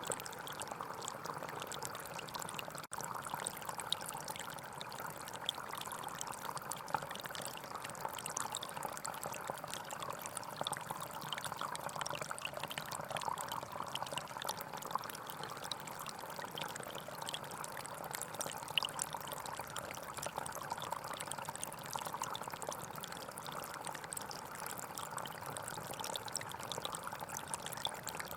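Gentle forest stream flowing steadily, its water babbling and trickling without pause, with a brief dropout about three seconds in.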